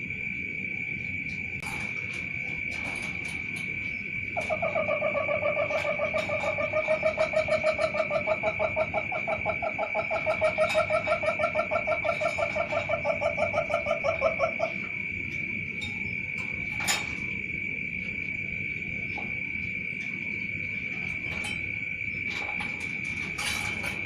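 A steady high insect drone, joined a few seconds in by a loud, fast-pulsing trill from an animal that lasts about ten seconds and dips in pitch as it ends. A single sharp click follows a couple of seconds later.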